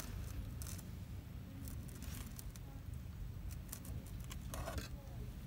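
Short rustles and clicks of something being handled, a few scattered through, over a steady low rumble.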